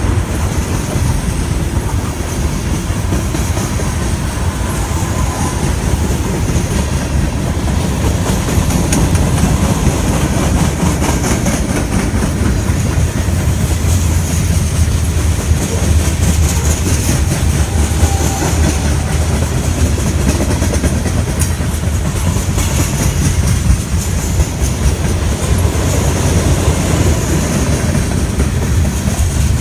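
Freight train cars rolling past, steel wheels clicking and clattering over the rail joints in a steady rumble.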